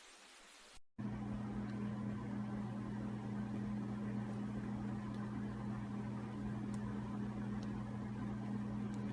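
A faint, steady low hum with a light hiss over it, starting about a second in.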